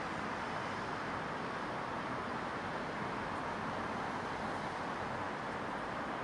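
Steady, even ambient hiss of a residential neighbourhood: a distant urban hum with no distinct events standing out.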